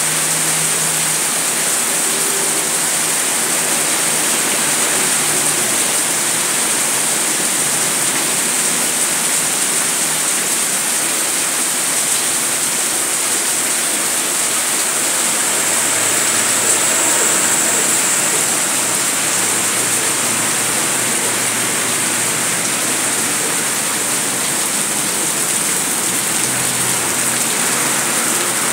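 Heavy rain pouring steadily, splashing onto wet pavement, with water streaming off the roof edge.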